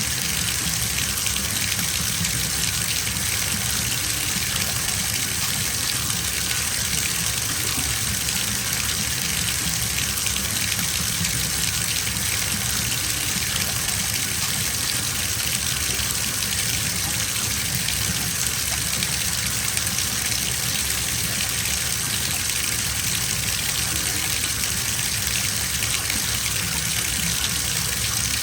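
Water gushing steadily from a tap into a bathtub as it fills, an even rushing with no change.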